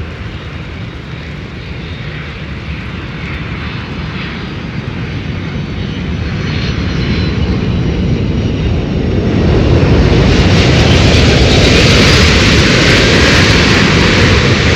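Jet airliner engines passing close by, the roar growing steadily louder and peaking from about ten seconds in, with wind rumbling on the microphone.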